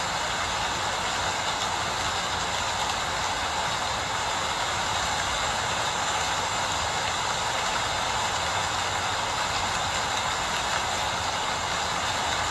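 Steady rain falling, an even hiss with no separate drops or pauses.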